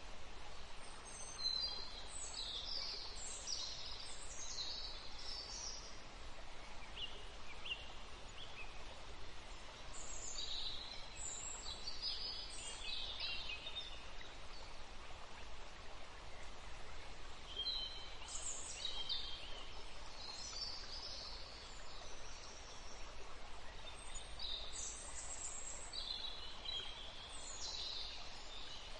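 Birds calling in four short bouts of high chirps, a few seconds apart, over a steady background hiss.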